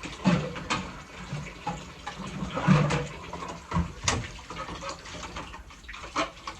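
Water running and splashing, broken by irregular knocks and clatter of items being handled and washed.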